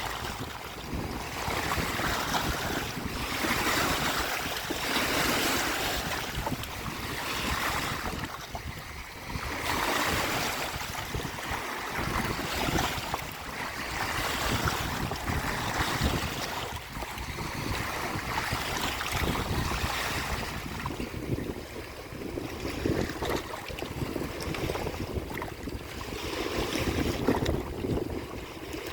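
Waves washing in on a shore, the surf swelling and falling back every couple of seconds, with wind buffeting the microphone in a steady low rumble.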